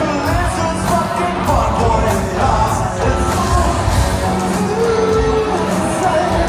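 A rock band playing live, with a man singing lead over the band, loud and continuous.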